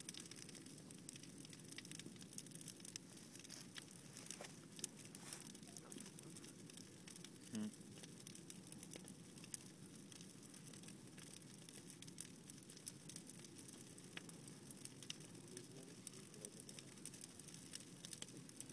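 Wood campfire crackling faintly, with frequent small sharp pops scattered over a low steady rush. A brief low sound stands out about seven and a half seconds in.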